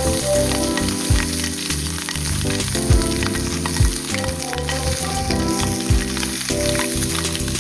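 Processed meat sizzling as it fries over a campfire: a continuous crackling hiss. Background music with sustained chords and a slow beat plays over it.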